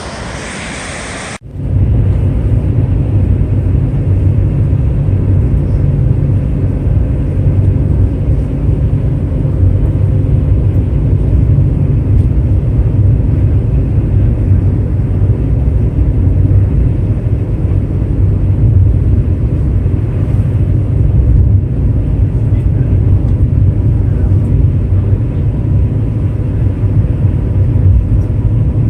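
Steady low rumble of a moving vehicle heard from inside its cabin, starting abruptly about a second in after a brief stretch of wind and surf.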